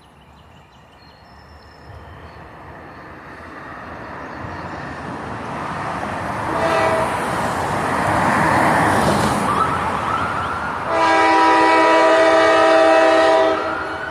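Diesel freight locomotives approaching, their rumble growing louder, sounding the air horn for a road grade crossing: a short blast about six and a half seconds in, then a long loud blast near the end.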